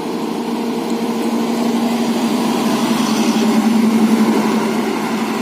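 Steady motor vehicle engine drone with a strong low hum and overtones, swelling slightly in the middle and easing off near the end.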